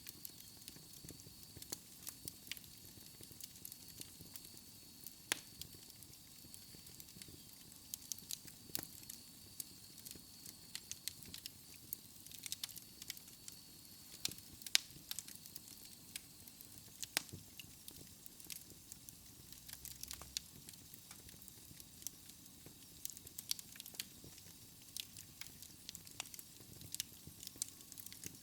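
Fire in a fireplace crackling: frequent irregular pops and snaps over a soft hiss. A faint high-pitched whistle runs through the first half and fades out about halfway.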